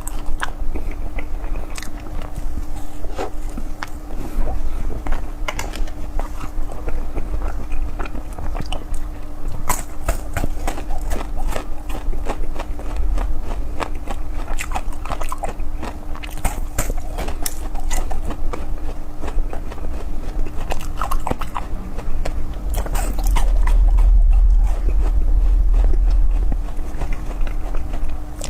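Close-miked eating sounds: repeated bites and chewing with sharp, crisp crackles, over a steady faint low hum. A heavier low rumble comes in near the end.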